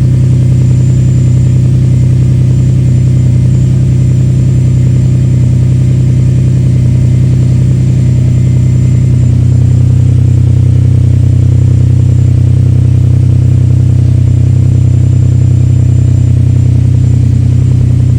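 Ferrari 456's V12 idling steadily just after a cold start. It is running with a random misfire that the owner feels as a slight vibration, with a couple of cylinders not too happy.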